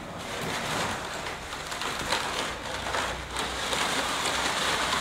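Silver metallic gift wrap crinkling and rustling as hands dig into it and pull it open.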